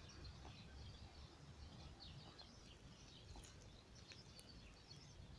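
Faint background rumble with small birds chirping, many short chirps scattered throughout.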